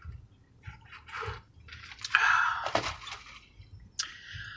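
Close-miked chewing and mouth noises from a person eating, in short noisy spells, with a sharp click a little under three seconds in.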